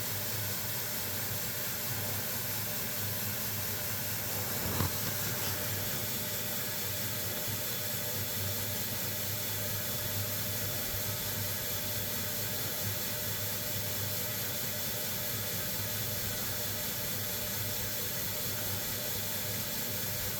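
A steady hiss over a low hum, with one short knock about five seconds in.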